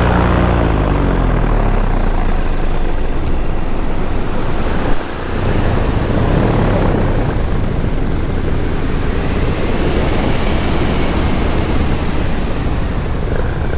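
Paramotor engine and propeller throttling back, the engine pitch falling over the first couple of seconds, then air rushing loudly past the microphone with the engine running low underneath. A single sharp knock about five seconds in.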